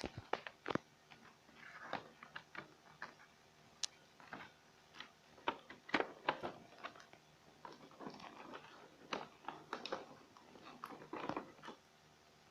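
Hands handling the headphone packaging and its contents: irregular clicks, taps and short rustles of cardboard and plastic.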